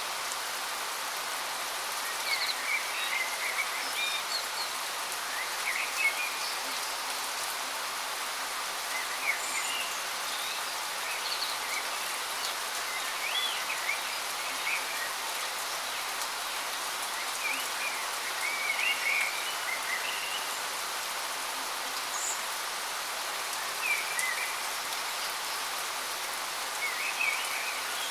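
Steady hiss of a waterfall's falling water, with small birds chirping in short bursts every second or two over it.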